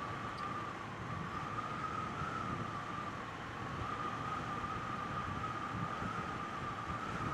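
Triumph Bonneville T120 motorcycle riding at a steady speed: an even engine note with a steady, slightly wavering tone over wind rush.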